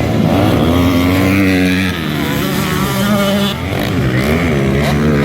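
Motocross motorcycle engines revving, their pitch rising and falling repeatedly as the bikes accelerate and ease off.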